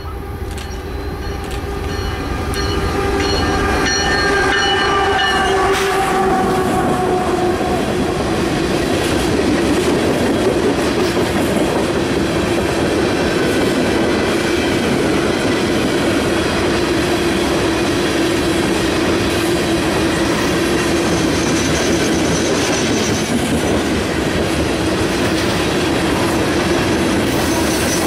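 Norfolk Southern diesel locomotive sounding its air horn as it approaches, the horn's pitch dropping as it passes about six seconds in. After that, a long string of ballast hopper cars rolls by with a steady rumble and clickety-clack of wheels on the rails.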